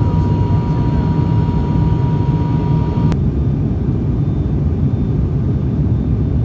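Loud, steady, low mechanical rumble of a running vehicle, with a thin steady whine that stops about three seconds in.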